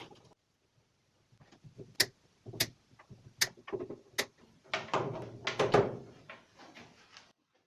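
Handling noise: four sharp clicks spaced less than a second apart, then a denser cluster of knocks and rattles that tails off near the end.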